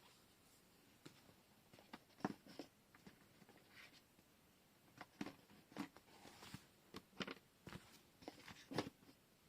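Faint, irregular clicks and rustles from washi tape rolls and paper being handled, with a couple of sharper taps a little after two seconds and near the end.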